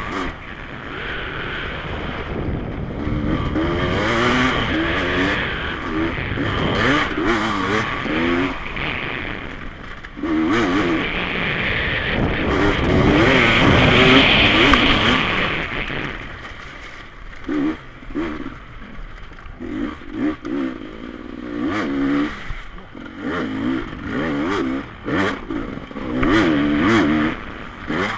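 Enduro dirt bike engine revving up and down as it is ridden round the motocross track. It is loudest near the middle, then comes in short throttle bursts with quieter gaps near the end.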